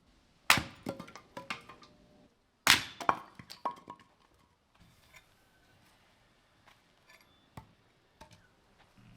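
Two clusters of hard knocks and clinks about two seconds apart. Each starts with a sharp strike that rings briefly, then a few lighter taps follow. After them come only a few faint ticks.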